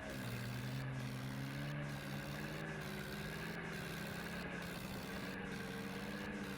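Swaraj 855 tractor's three-cylinder diesel engine running under way; its pitch drops at the start, then holds steady.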